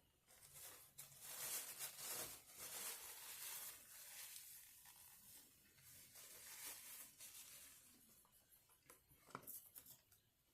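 Faint close-up eating sounds: irregular crackling and crunching bursts, strongest in the first few seconds, with a few sharp clicks near the end.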